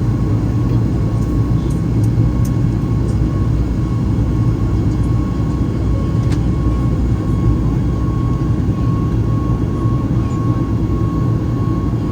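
Steady cabin noise inside a Boeing 737 MAX 8: a low, even rumble of engines and airflow with a thin steady whine above it, and a few faint ticks.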